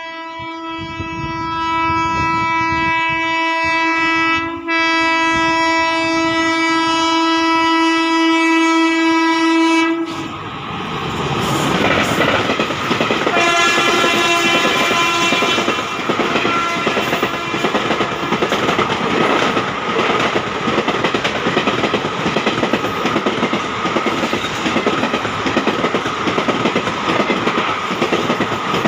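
A WAP7 electric locomotive of a high-speed express sounds two long horn blasts, back to back, as it approaches. From about ten seconds in, the coaches rush past close by with a steady rhythmic wheel clatter on the rails. A shorter horn blast sounds a few seconds into the passing.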